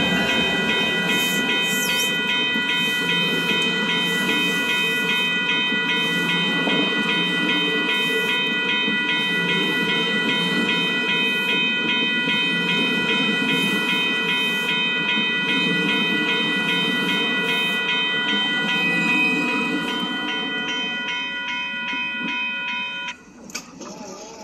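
Commuter train's bilevel coaches rolling past at a level crossing, wheels rumbling and clacking on the rails, easing off near the end. Over it the crossing's warning bell rings in rapid even strokes and cuts off suddenly about a second before the end.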